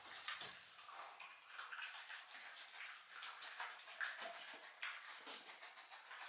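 Shiba Inu eating a dog treat: faint, irregular mouth clicks and smacks of chewing and licking.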